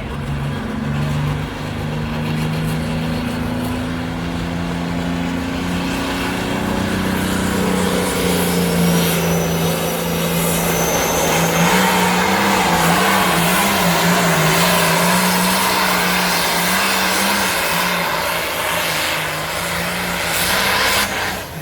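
Tractor engine working hard under load during a pull. Its note rises a little at first, runs steady and louder through the middle, wavers for a few seconds, then drops off right at the end.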